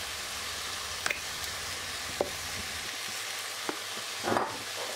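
Minced meat and spinach sizzling steadily in a pot on the stove, with a few light clicks and a slightly louder rustle near the end as spices are sprinkled in.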